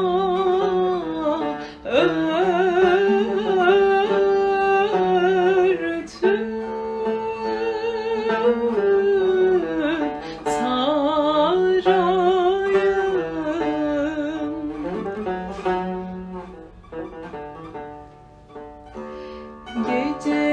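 A woman singing a slow Turkish song, holding long ornamented notes with a wavering vibrato, over plucked string accompaniment. The voice thins out for a few seconds in the latter part and comes back in just before the end.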